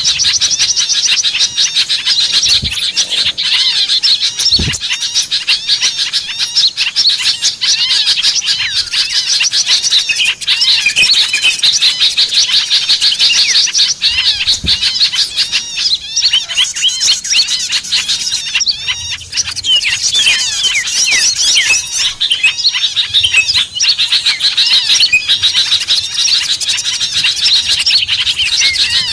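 Dense, busy chorus of many small birds chirping and twittering over one another without a break: a bird-lure recording of agitated small birds, used to draw wild birds in.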